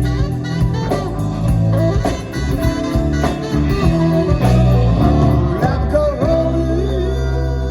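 Live rock band playing a slow song, with singing over electric guitars, bass and drums.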